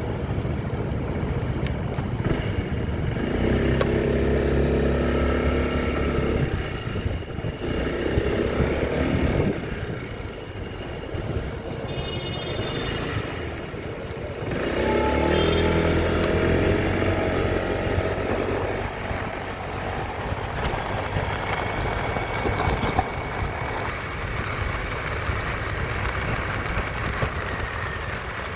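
Motorcycle engine running under way, with two louder spells of acceleration, about four seconds in and again about fifteen seconds in, over steady road and wind noise.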